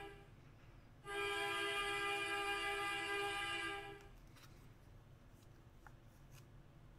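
A loud, steady horn chord blast, like a sound effect, cut off at the start and sounding again for about three seconds from about a second in. After it, a few faint clicks.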